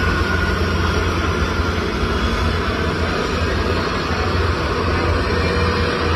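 Aircraft engine running steadily, a constant low hum under a wide rushing noise.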